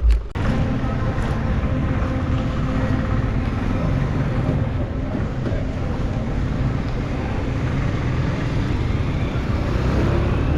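Steady city road traffic noise: vehicle engines running and passing in a continuous low rumble, starting abruptly right after a brief click.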